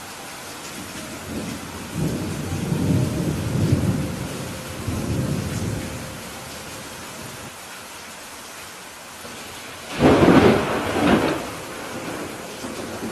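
Steady rain with thunder. A low rolling rumble builds about two seconds in and lasts a few seconds, then a sudden, louder thunderclap comes about ten seconds in.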